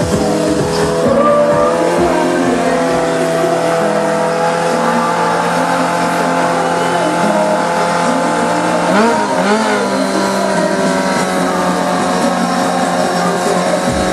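Motorcycle engine running at steady high revs, with a brief dip and rise in revs about nine seconds in.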